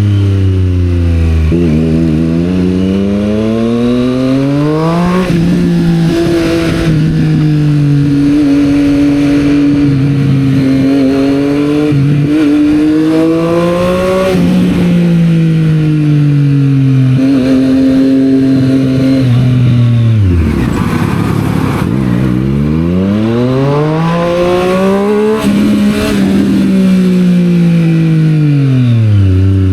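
Triumph Street Triple 765 R's three-cylinder engine through a Yoshimura exhaust, riding in traffic: the revs climb and fall several times as the bike accelerates and slows, dropping lowest about twenty seconds in before climbing again.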